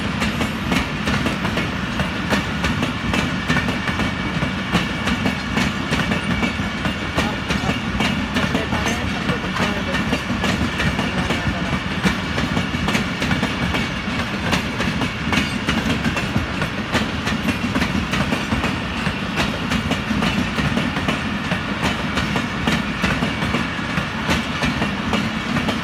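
Passenger train coaches rolling past, a steady rumble of wheels on rails with a continuous clickety-clack of wheels over rail joints.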